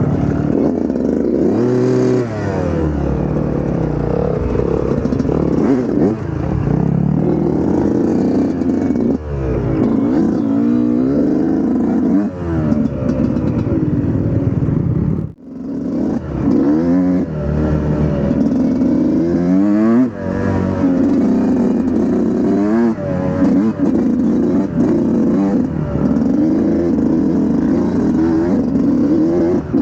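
Dirt bike engine being ridden hard on a trail, revving up and falling back again and again as the throttle opens and shuts through the gears. The sound drops out for a moment about halfway through.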